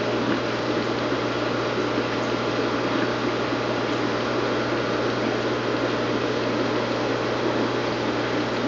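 Aquarium pump or filter running steadily: a constant hum under an even hiss of moving water, with no change.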